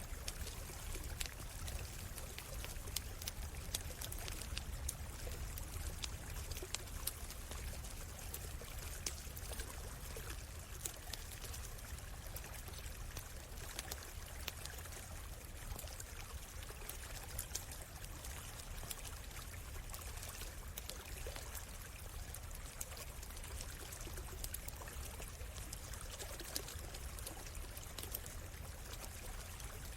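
A stream running steadily, with the sharp crackles and pops of a campfire scattered over it, most frequent in the first half.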